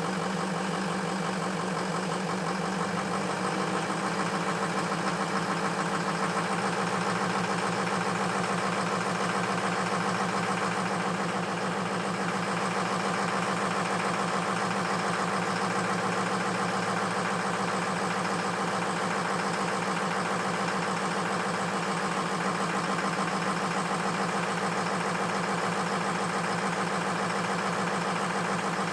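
Ford F-350 engine idling steadily while warming up from a cold start, running on two injectors the owner says are bad.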